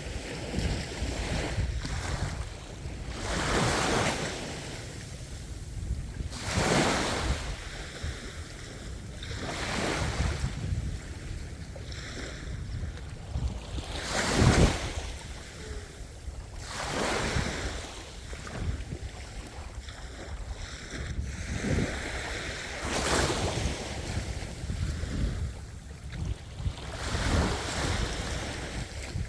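Sea waves washing in on a shore, the rushing noise surging and falling back every few seconds.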